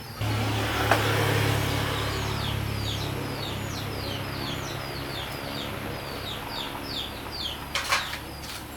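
A motor starts abruptly and runs with a steady low hum that slowly fades. Small birds chirp over it again and again, and there is a sharp knock near the end.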